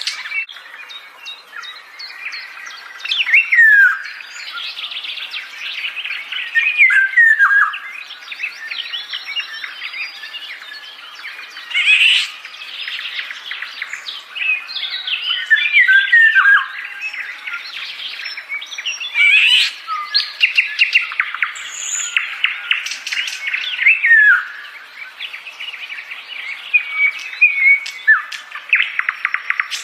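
Songbirds chirping and calling: a dense run of rapid chirps and trills, broken every few seconds by a louder note that slides down in pitch.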